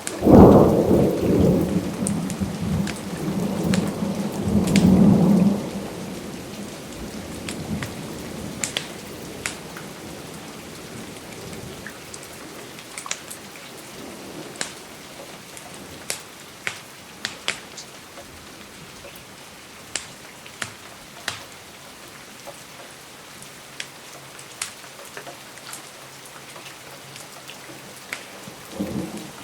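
A thunderclap right at the start rolls into rumbling thunder for about six seconds, swelling again about five seconds in, over steady rain. After that the rain goes on alone with scattered sharp clicks, and a faint rumble rises near the end.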